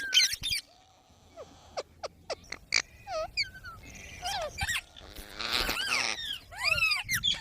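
Pet green parrot calling: scattered clicks and short chirps, then from about four seconds in a run of arched, squawky calls, several a second.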